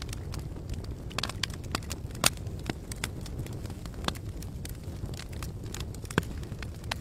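Campfire crackling: wood popping in sharp, irregular snaps over a steady low rumble of burning, with a couple of louder pops.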